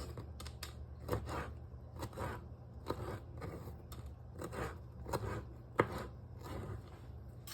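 Kitchen knife cutting a tomato on a cutting board: a series of short, irregular slicing and tapping strokes of the blade through the fruit and onto the board.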